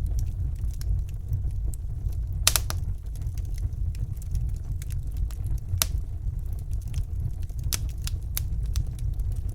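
Fire burning in a fireplace: a steady low rumble of flames with scattered sharp crackles and pops, the loudest about two and a half seconds in.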